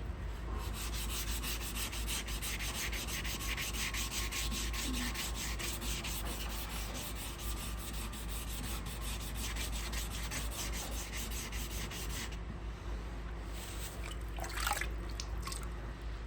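Hand sanding on a car bumper's painted surface: quick, even back-and-forth strokes of abrasive paper, which stop about twelve seconds in. A brief squeak follows near the end.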